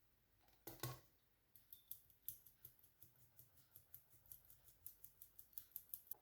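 Kitchen utensil work in food preparation: two sharp knocks, then a quick run of light clicks at about five a second.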